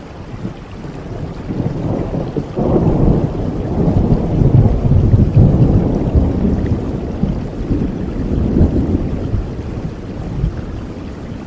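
Thunder rumbling over steady rain falling on leaves; the low rumble swells suddenly about two and a half seconds in, peaks a few seconds later and slowly dies away.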